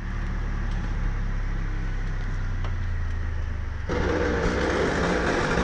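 Tractor engine running steadily. About four seconds in, a louder, rougher noise joins it.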